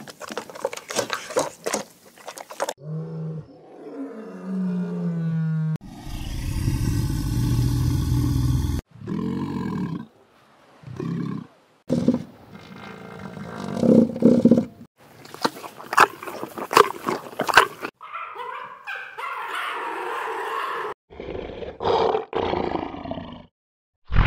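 A run of short animal call recordings spliced one after another, with abrupt cuts every few seconds. Some calls are low and pitched and some are noisy.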